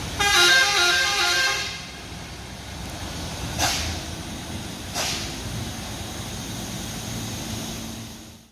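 A vehicle horn sounds for about two seconds, jumping quickly between notes, then heavy vehicle engine and road noise carries on with a couple of sharp clicks, fading out at the end.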